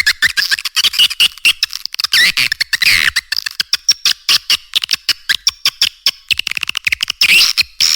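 Swiftlet call-sound recording (suara panggil walet), played as a lure to draw swiftlets into a bird house. Dense, rapid, high chirps and twitters follow each other many times a second, with short breaks between bursts.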